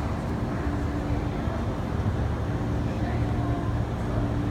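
MTR SP1900 electric train running steadily through the station: a continuous low rumble with a steady hum that fades in and out.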